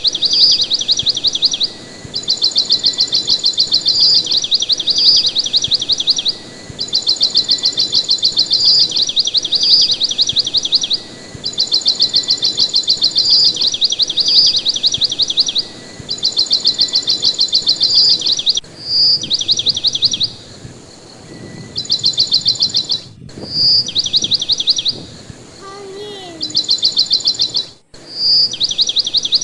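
Bird song: rapid, high-pitched trills a few seconds long, repeated over and over with short breaks, with single sharp chirps between them. Near the end a lower, falling call cuts in.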